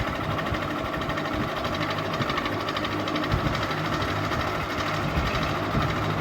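Ceiling fan running steadily: a motor hum with a fast, even rattle over it.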